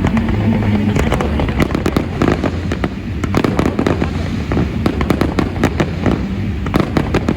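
Aerial fireworks going off: many short, sharp pops and cracks in quick, irregular succession over a steady low rumble.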